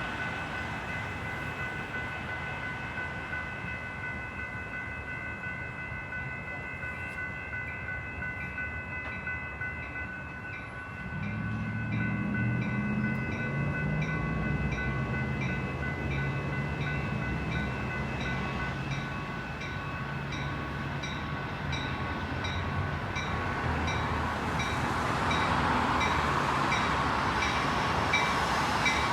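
Metra commuter train coming in: a diesel locomotive's engine comes up about a third of the way through and the sound grows louder toward the end. Under it are steady ringing tones with evenly repeating high dings.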